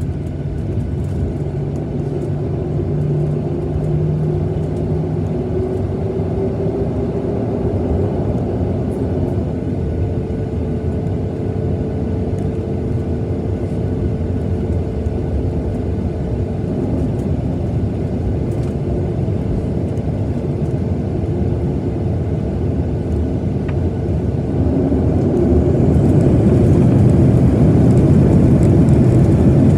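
Cabin noise inside a Boeing 737-900ER: a steady rumble from its CFM56-7B jet engines and the airflow, with a tone that slowly rises in pitch over the first ten seconds or so. It gets louder about 25 seconds in.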